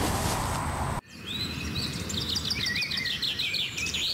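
A steady rushing noise cuts off suddenly about a second in. Songbirds then sing: a fast run of repeated high chirps with a few warbled phrases.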